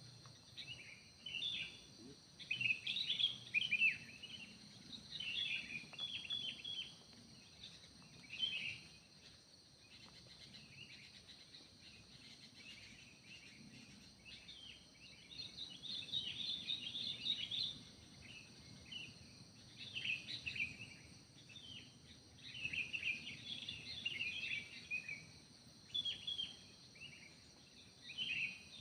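Forest birds singing in bursts of quick high chirps and trills, with a lull in the middle, over a steady high-pitched drone of insects.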